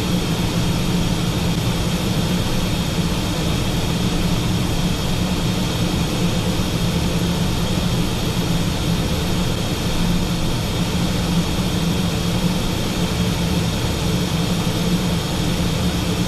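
Steady in-flight cockpit noise of a Learjet 45XR: rushing airflow and the drone of its twin Honeywell TFE731 turbofans, with a constant low hum and a steady higher whine, unchanging throughout.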